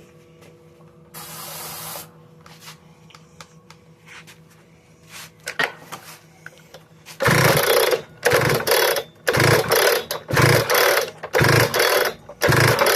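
Hilti DSH 900 cut-off saw's two-stroke engine being cranked over in a string of short, loud bursts, about one a second, without catching; the engine is cold.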